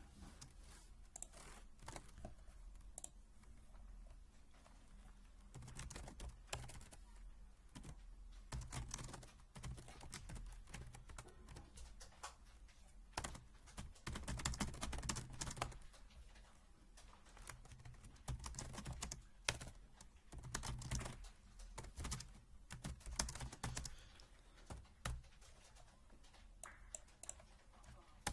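Typing on a Happy Hacking Keyboard (HHKB): runs of quick key presses in bursts, broken by short pauses.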